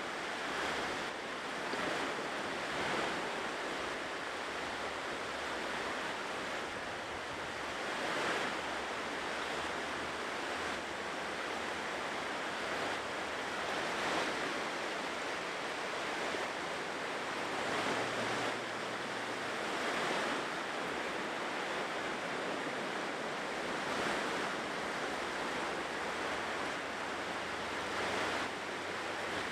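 Ocean surf washing steadily onto a shore, the noise swelling gently as each wave breaks every few seconds.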